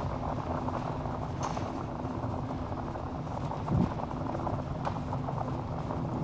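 Log fire crackling steadily with scattered sharp pops, and one louder, duller pop a little past halfway through.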